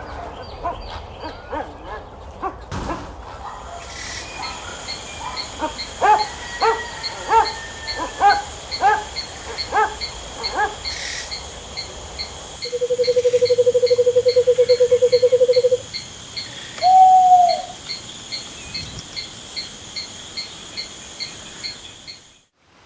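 Forest ambience: several birds calling in short, repeated notes. About halfway through, a low rapid trill lasts some three seconds and is followed by a short call. Under it all runs an even, ticking insect chorus.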